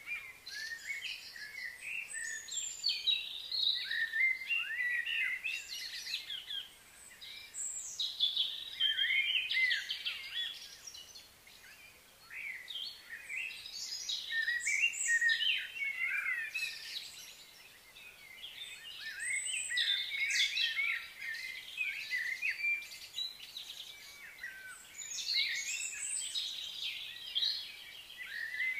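Several birds chirping and singing in short, overlapping high calls, swelling and fading in waves every few seconds.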